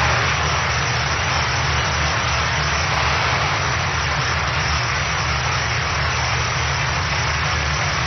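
Steady audience applause on a live theatre recording.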